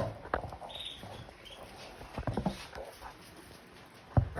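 Canaries moving about a cage, with a couple of brief, faint high cheeps about a second in and scattered light knocks and rustles, the sharpest near the end.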